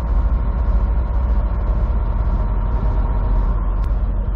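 Semi truck's diesel engine running, heard from inside the cab: a steady low rumble with a faint hum above it.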